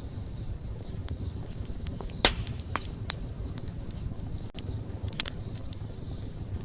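Wood campfire burning, with a low steady rumble of flames and scattered crackles and pops. The sharpest pop comes a little over two seconds in, with smaller ones after it.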